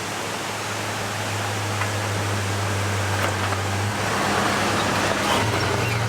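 Vintage truck camper's engine droning steadily under a loud rushing road noise while driving on rough ground. The pitch steps up slightly a few seconds in, and there are a few faint knocks.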